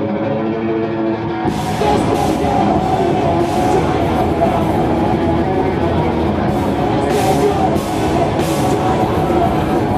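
Live experimental thrash-metal band playing. A sustained held guitar chord rings until about a second and a half in, then distorted guitars and drums with crashing cymbals come in together.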